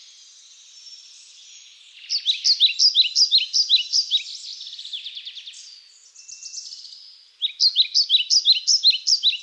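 A songbird singing: two loud phrases of quick, repeated down-slurred whistled notes, about three a second, the first about two seconds in and the second near the end, with softer twittering between them.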